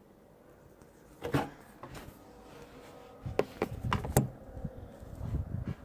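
Handling noise on the microphone: a few sharp knocks and rubs, the first about a second in and a cluster around three to four seconds in, over a low rumbling scuffle.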